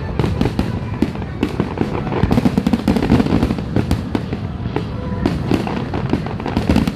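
Aerial fireworks bursting in a dense, unbroken barrage: many sharp bangs and crackles overlap over a continuous deep rumble, with no pause.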